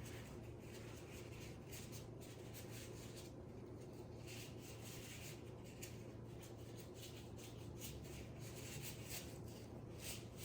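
Faint rubbing and rustling of a sterile glove being worked onto the hand, over a steady low hum.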